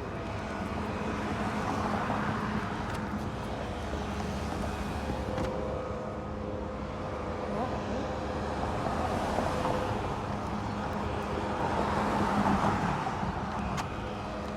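Road traffic noise: vehicles passing at intervals over a steady hum.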